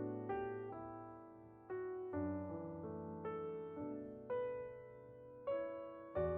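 Background piano music, slow and gentle, with notes and chords struck every second or so and left to ring and fade.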